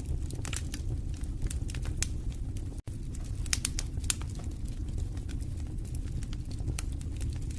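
Fireplace fire crackling: a steady low rumble of flames under frequent irregular sharp pops and snaps. The sound cuts out for an instant just before three seconds in.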